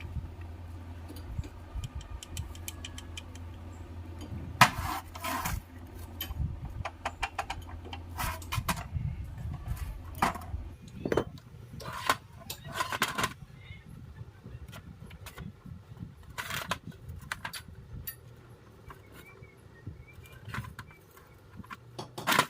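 Metal tools and starter motor parts clinking and knocking in a string of sharp, irregular clicks, over a steady low hum that fades about ten seconds in.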